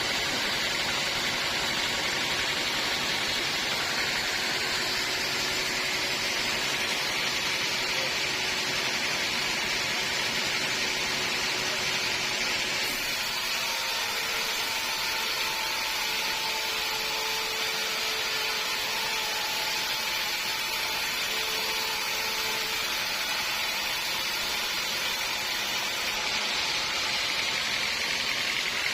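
Sawmill machinery running steadily, a continuous noise with no pauses; a faint steady hum or whine comes in about halfway through and fades again some ten seconds later.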